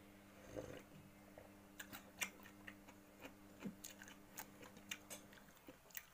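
Faint close-up chewing and mouth clicks of a person eating, a short sharp click every half second or so at irregular spacing, after a sip from a coffee mug. A low steady hum runs underneath and stops about five seconds in.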